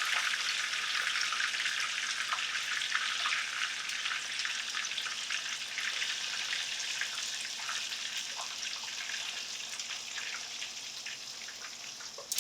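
Oil sizzling and crackling in a skillet as panko-breaded cube steaks shallow-fry, a dense hiss full of small pops that slowly gets quieter.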